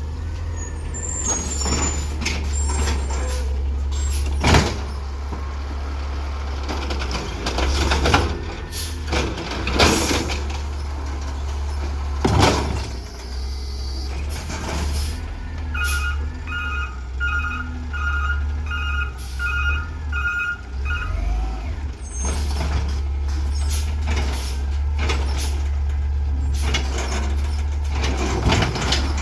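Garbage truck at work: a steady diesel engine rumble broken by repeated sharp hisses and clanks. Partway through, a back-up alarm beeps about two times a second for roughly five seconds.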